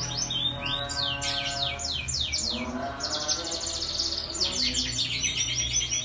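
Canary singing a fast, continuous song: phrases of rapid, repeated downward-sweeping whistled notes that run into quick trills.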